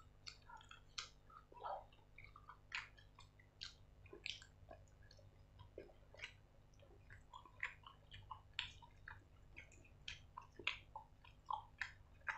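Close-miked chewing of grilled chicken: soft wet mouth smacks and clicks coming irregularly, a few each second.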